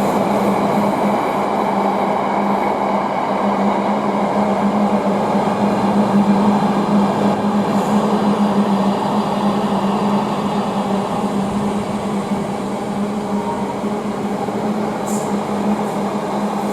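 Class 66 diesel-hauled intermodal freight train passing through at speed: a continuous steady noise of wagons rolling over the rails, with a steady low hum under it, easing slightly near the end.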